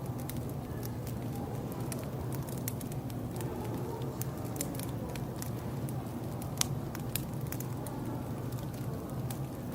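Wood fire crackling, with irregular sharp pops and snaps over a steady low background rumble.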